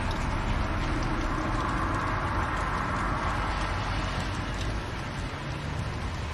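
Fire burning in a fireplace: a steady rumble with faint, scattered crackles.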